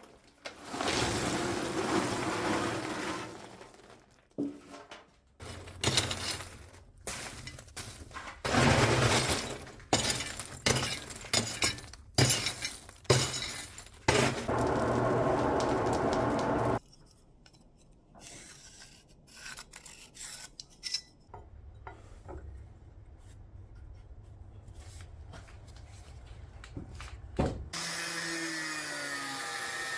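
Metalworking workshop sounds: irregular knocks and clatter of metal and tools, bursts of rushing noise, and a steady noise that cuts off suddenly about two-thirds of the way through, followed by a quieter stretch with a low hum and scattered clicks.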